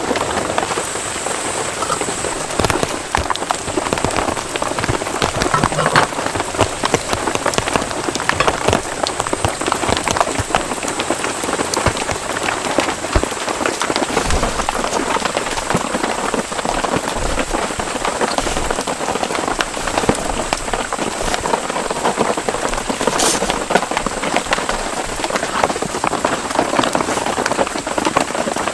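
Steady rain falling on a tent's fabric roof, heard from inside the tent as a dense, even spatter of drops.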